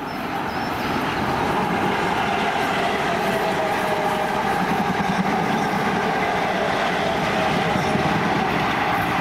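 South Western Railway passenger train passing at speed: a loud, steady rush of wheel-on-rail noise with a whine running through it, building over the first second and then holding.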